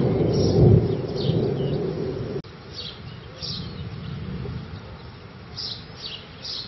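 Low thunder rumbling, which stops abruptly about two and a half seconds in. Over it, a bird repeats short, high, falling chirps.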